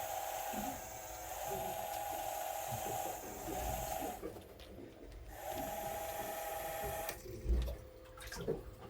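Small electric fishing reel motor whining as it winds in line for smelt, stopping about four seconds in, then running again for under two seconds. A dull low thump follows near the end.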